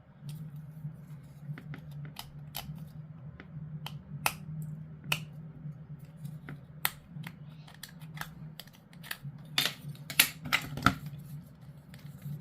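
Irregular sharp snips and clicks of plastic, a cluster of louder ones about ten seconds in, from hobby clippers cutting model-kit parts off the sprue. A steady low hum runs underneath.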